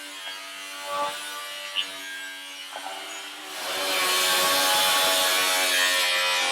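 A power tool cutting into the car body's sheet metal, starting about three and a half seconds in with a loud, steady, high hiss after a few light knocks.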